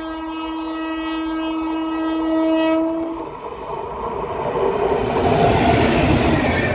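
Indian Railways locomotive horn sounding one long steady blast for about three seconds, then the noise of the train running past builds and grows louder.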